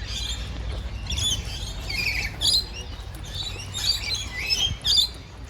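Many birds chirping and calling at once, short high overlapping chirps and trills with no pause, over a low steady rumble.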